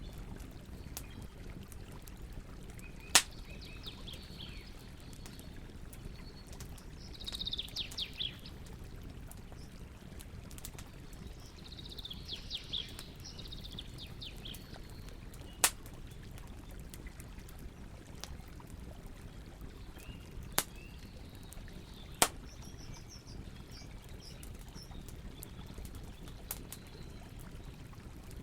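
Campfire burning with a steady low hiss and rumble, and a few sharp, loud crackling pops spread through it. Songbirds sing short chirping phrases over it several times, the clearest a run of falling notes about a quarter of the way in and another about halfway.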